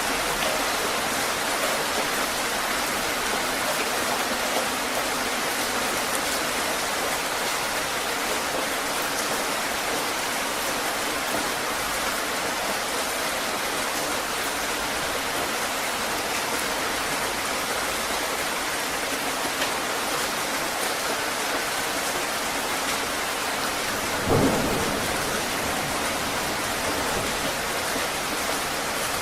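Heavy rain falling in a steady, even hiss. About 24 seconds in there is one brief, louder low thump.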